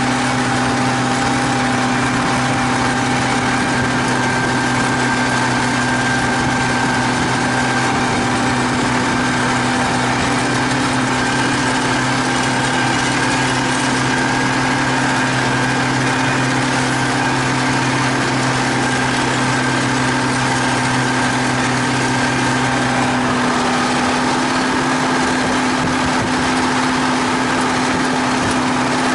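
T-150K wheeled tractor's diesel engine running steadily under load while cultivating. Near the end one low hum in the sound drops away while the engine runs on.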